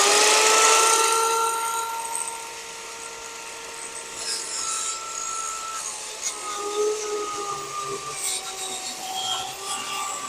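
Electric saw running at full speed with a steady high whine, then cutting through a wooden board to trim its end, the motor's pitch dipping slightly as the blade takes the load.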